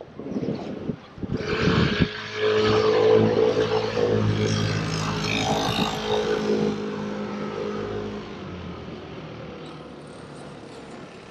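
A motor vehicle's engine passing close by, rising sharply about a second in and fading away gradually over the last few seconds.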